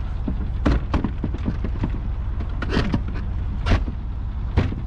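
Four sharp knocks and thumps, spread a second or so apart, over a steady low rumble.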